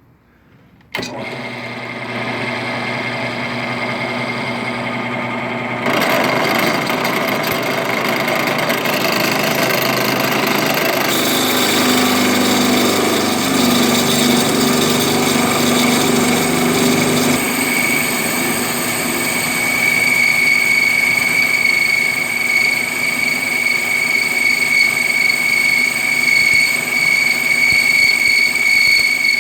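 An electric metalworking power tool switches on about a second in and runs steadily with a high whine. Its sound gets louder and shifts in stages, about 6, 11 and 17 seconds in.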